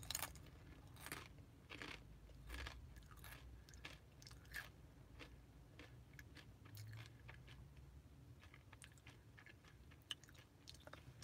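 A person chewing food close to the microphone: faint, irregular crunches and wet clicks of the mouth.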